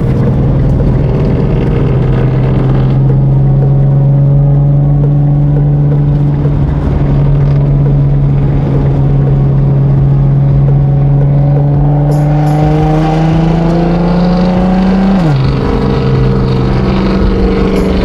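Infiniti Q50's VQ V6 engine droning steadily under light acceleration, its pitch creeping up slowly. About fifteen seconds in the pitch drops sharply as the transmission shifts up, then the engine settles into a steady drone again.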